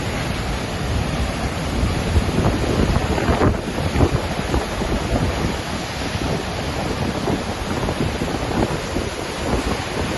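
Waterfall roaring steadily, a dense rushing noise with deep rumble, with gusts of wind buffeting the microphone, strongest around the middle.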